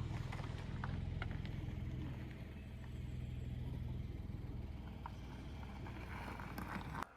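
A steady low rumble of the kind a car makes while driving, with a few faint clicks over it; it cuts off abruptly near the end.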